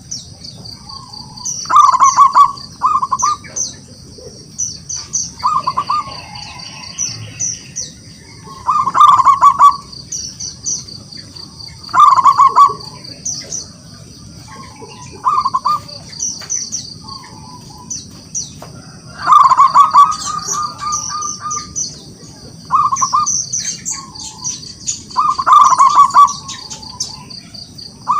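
Zebra dove cooing in short, rapid, trilled phrases, repeated every two to four seconds. Thin high chirps and a steady high-pitched hum run behind.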